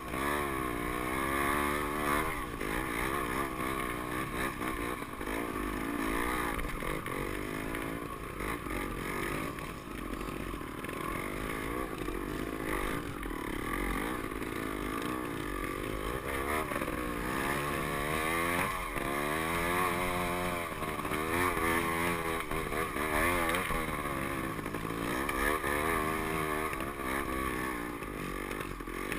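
Dirt bike engine running under changing throttle, its revs rising and falling every second or two as it picks its way along a rough trail.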